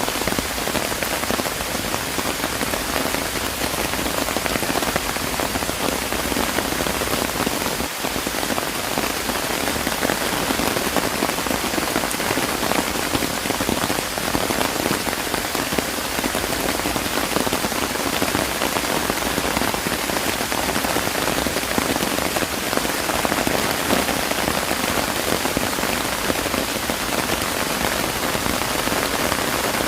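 Steady rain falling and pattering on surfaces, a dense even hiss of drops with no letup.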